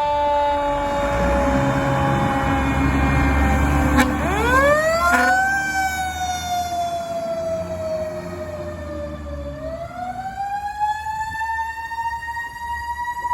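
Fire truck siren winding up and slowly falling in pitch, then winding up again and holding high near the end, over the rumble of the truck's engine. A sharp click about four seconds in comes just before a quick wind-up.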